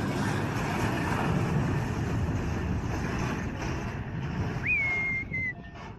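Steady rumble and hiss of a moving road vehicle, broken about three-quarters of the way in by a short, high-pitched squeal that rises sharply and then holds.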